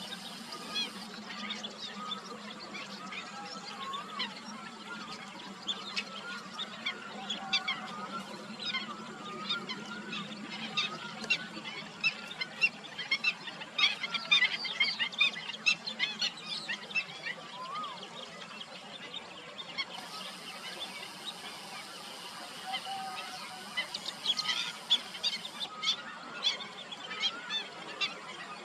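A chorus of many birds calling at once: dense short, sharp calls with a few lower wavering ones. The calling is busiest in the middle and again near the end.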